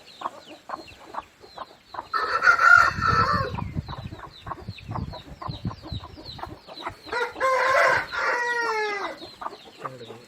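A rooster crowing twice, about two seconds in and again near the eight-second mark, the second crow ending on a long falling note. Short, rapid high-pitched bird calls repeat the whole time underneath.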